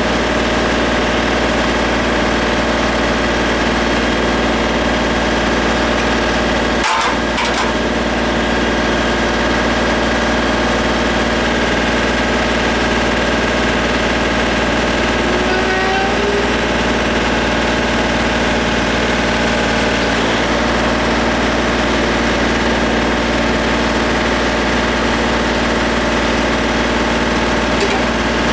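Tractor-loader-backhoe engine running at a steady speed, holding one even pitch.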